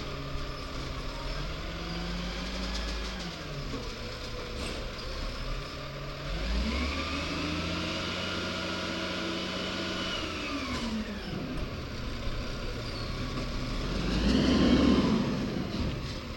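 Garbage truck's diesel engine revving up and falling back twice, the second time held high for about four seconds, typical of the engine speeding up to drive the compactor hydraulics. Near the end comes a louder rush of noise.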